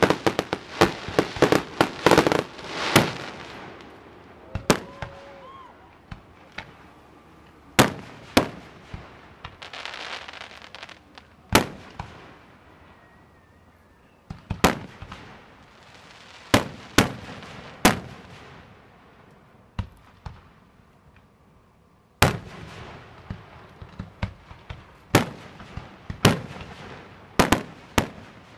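Aerial firework shells bursting: a rapid cluster of bangs at the start, then single booms every second or two, with stretches of crackle between them.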